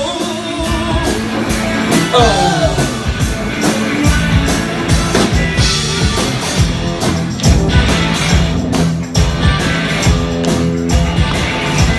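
Live rock band playing an instrumental stretch between sung lines: electric guitar riff over bass and drum kit, with a few brief gliding vocal or bent notes in the first few seconds.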